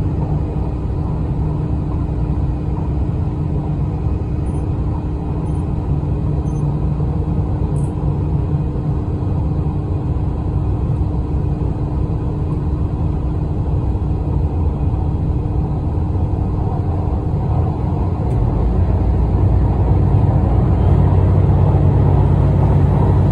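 Steady running rumble of a train heard from inside the carriage, with a faint steady hum; the rumble grows louder and deeper about eighteen seconds in.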